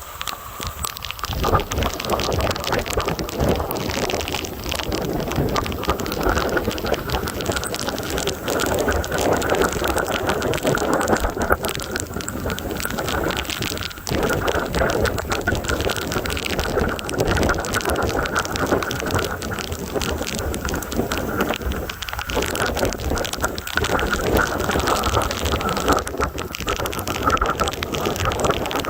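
Heavy rain from a severe thunderstorm pouring down steadily, countless drops spattering on surfaces close to the microphone.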